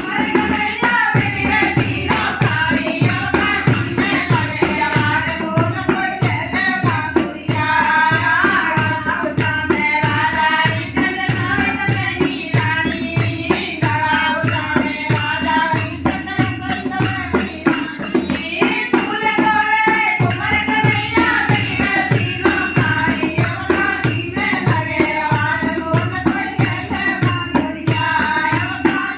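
Languriya folk song: a voice singing the melody over a steady beat of hand drum strokes and jingling percussion.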